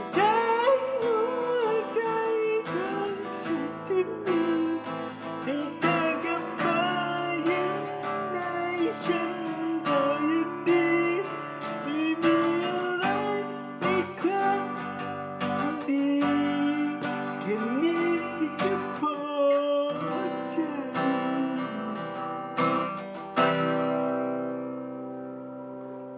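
Acoustic guitar music: strummed chords under a wavering, bending lead melody, ending on a last chord that rings out and fades.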